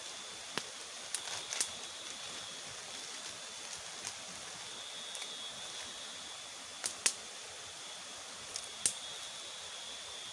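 River water flowing as a steady rushing hiss, with a steady high-pitched whine over it and several sharp clicks, in pairs about a second in, near the middle and a little later.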